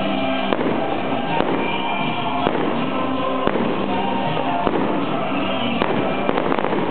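Fireworks going off about once a second, with a quick run of bangs near the end, over loud music.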